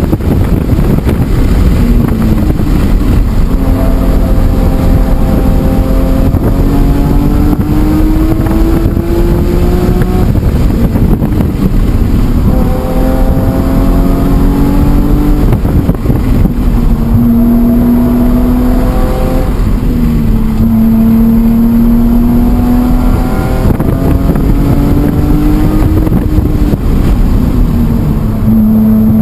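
BMW E46 M3's S54 straight-six running hard on track: the engine note climbs under acceleration and drops sharply several times as the car shifts and slows for corners, over heavy wind and road noise.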